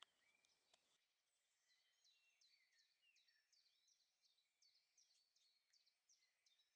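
Faint woodland birdsong: a bird repeats short, high, downward-sweeping notes in a quick series, two or three a second, while other birds call lower. A brief click comes right at the start.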